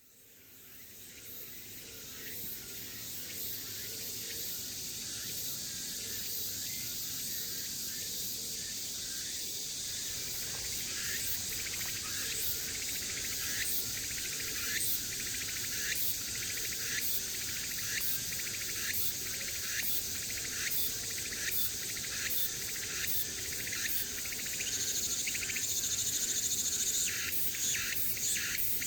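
Cicada calling for a mate: a dense, high buzz that fades in at the start, broken by short repeated pulses from about a third of the way in, growing louder near the end.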